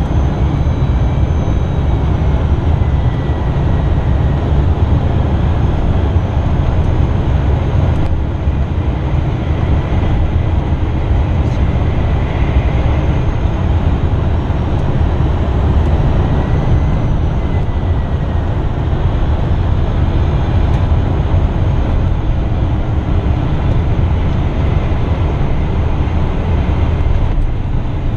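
Steady rush of airflow and jet engine noise from an Embraer Phenom 300 on approach, heavy in the low end, with a faint high whine that drifts slightly in pitch.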